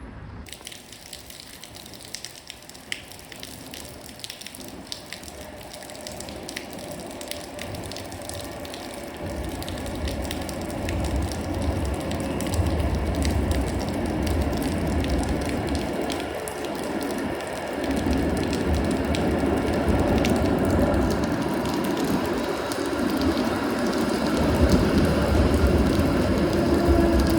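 A rail vehicle drawing closer: a deep rumble builds up and grows steadily louder over the second half, over a steady crackle of small clicks.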